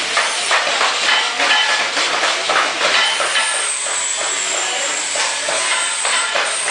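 Electric arc welding: the arc crackles and sizzles steadily with irregular sharp pops.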